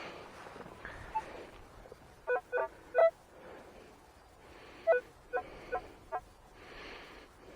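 Metal detector giving short target beeps, three close together and then four more, as it checks a freshly dug hole and clod, with soft scuffing of soil and grass between.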